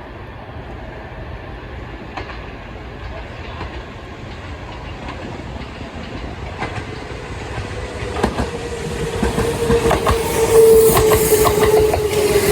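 Kintetsu electric train (a 2610 series coupled with a 1253 series) approaching on the track and growing steadily louder, its wheels clicking over the rail joints. About eight seconds in, a steady whine sets in and sinks slightly in pitch.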